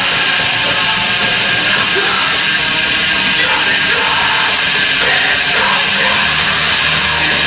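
Live heavy rock band playing loud, with distorted electric guitars, drums and shouted vocals, recorded from the audience in the club.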